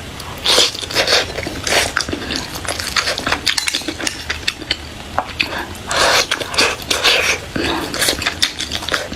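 Close-up eating sounds: wet chewing and smacking bites at an irregular pace, with light clinks of cutlery on a dish.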